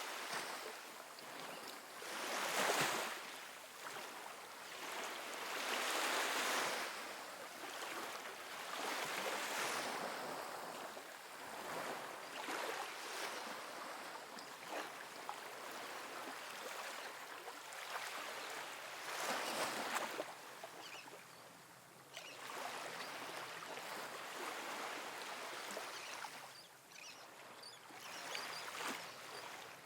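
Small ocean waves breaking and washing up on a sandy beach: a soft rush of surf that swells and fades every few seconds.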